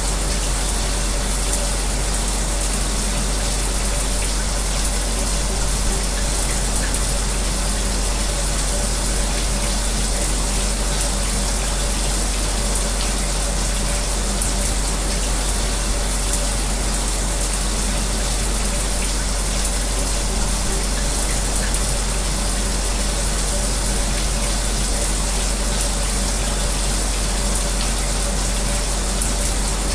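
Shower water running steadily, mixed with the steady hum of a fan, unchanging throughout.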